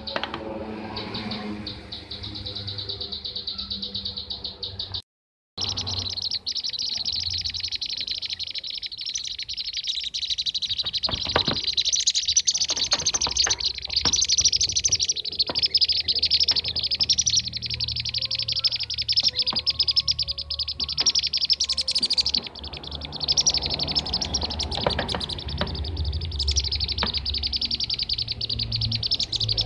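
Dense chorus of bee-eater (kirik-kirik) calls: rapid, high chirps packed tightly together without a pause, a recording used as a lure to draw bee-eaters in. The sound cuts out completely for about half a second around five seconds in.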